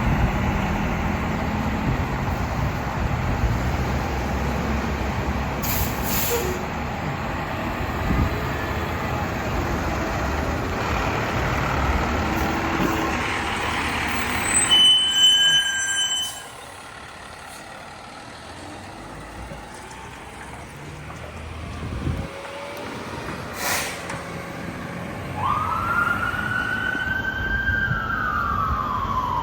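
A fire engine's diesel engine running loudly, with a short high steady tone about 15 seconds in. The engine sound drops away sharply at about 16 seconds. About 25 seconds in, a siren starts a rising and falling wail.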